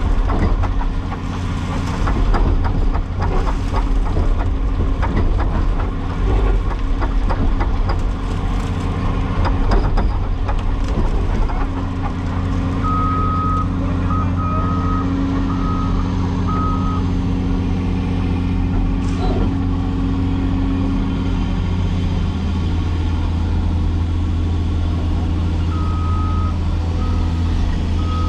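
A Cat 336E excavator's diesel engine running under load, with clanking and knocking during the first dozen seconds. Then the engine runs steadily while a reversing alarm beeps in short runs, once around the middle and again near the end.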